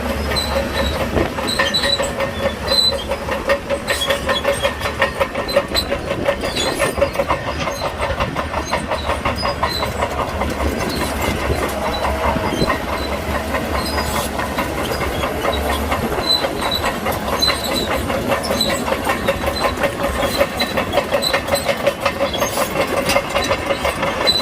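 Crawler bulldozer working: its diesel engine running steadily while its steel tracks clatter in a fast rhythmic clank.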